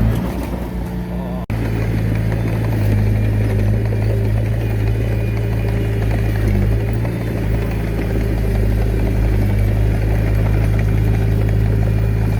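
Komatsu D21A mini bulldozer's diesel engine running steadily at constant speed, with a brief cut about a second and a half in.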